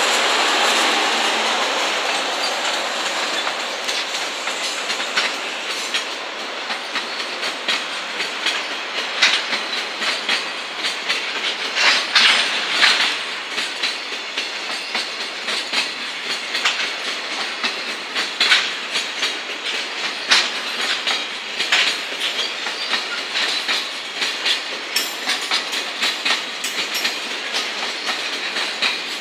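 Container freight wagons rolling past, their wheels clattering over rail joints with repeated sharp clacks. A louder steady hum from the passing EF210 electric locomotive fades away in the first second or two.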